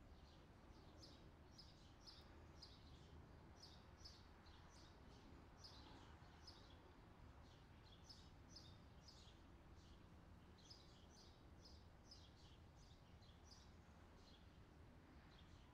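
Faint, high bird chirps repeating about twice a second over a low steady hum.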